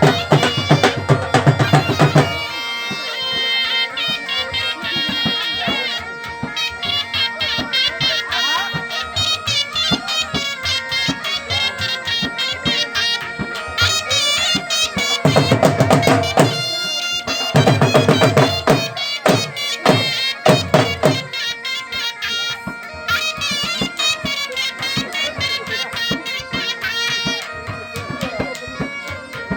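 Bagpipes playing a folk melody over steady drones, with drum beats under it, in the manner of a wedding pipe band.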